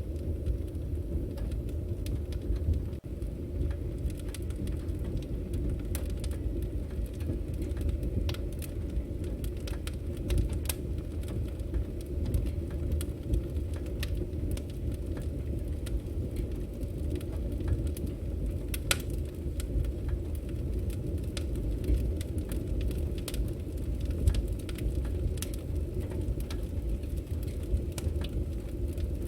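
Wood fire burning: a steady low rumble of flames under frequent sharp crackles and pops from the burning logs, a few of them louder than the rest.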